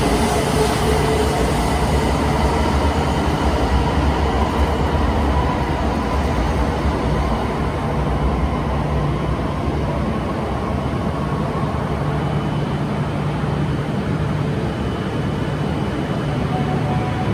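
Shinkansen train at the platform, giving a steady low electric hum and rushing noise with faint whine tones that slide slowly in pitch; a new whine tone comes in near the end.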